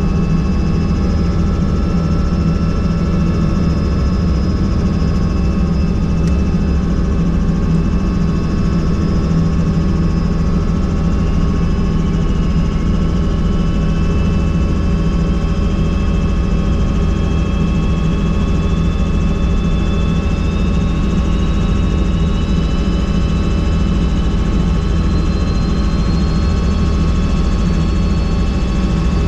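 Helicopter in flight: a steady, loud engine and rotor drone. A faint high whine slowly rises in pitch through the second half.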